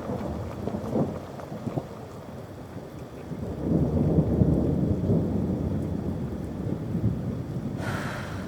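Steady rain with a low rumble of thunder that swells about halfway through and fades slowly.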